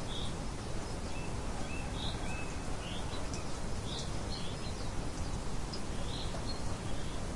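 Steady rain hiss with small birds chirping over it: short high calls about once a second.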